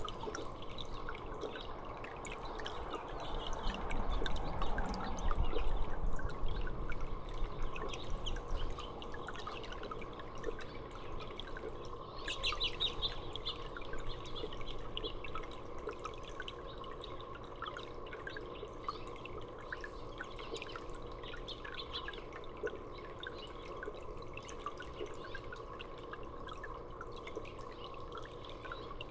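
Water trickling and dripping steadily, with small birds chirping now and then, a brief cluster of chirps about halfway through. A low rumble swells in the first third.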